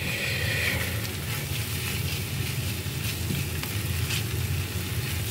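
Noodles sizzling on a hot flat grill top as they are stirred and pushed around with a silicone spatula; the sizzle is brightest in the first second. A steady low hum runs underneath.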